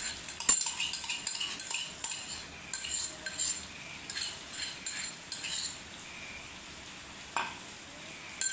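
A spoon scraping and clinking against a bowl in a run of quick strokes, scooping ginger-garlic paste into grated cauliflower. The strokes stop after about six seconds, and a couple of single clicks follow near the end.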